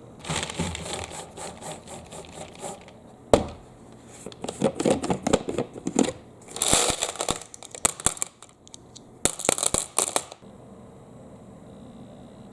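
Marbles rolling and clattering down a marble run: a rolling rattle for the first few seconds, one sharp clack about three seconds in, the loudest moment, then bursts of quick clicks and rattles that stop about ten seconds in.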